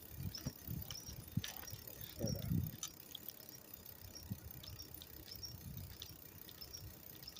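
Bicycle being ridden: irregular low thumps and rumble, with a stronger bump a little past two seconds in, and scattered light clicking and rattling from the bike.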